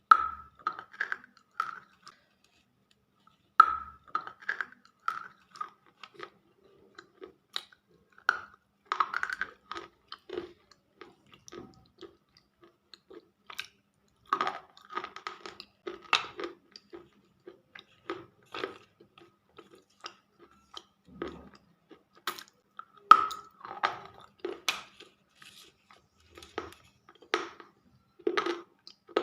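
Close-up crunching of slate pencils being bitten and chewed, a run of short, sharp crunches in clusters with a short pause about two seconds in.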